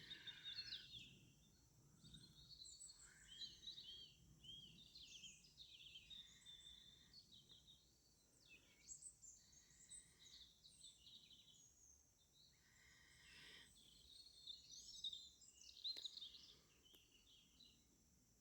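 Faint songbirds singing at dusk: a steady scatter of short chirps, whistled glides and warbled phrases.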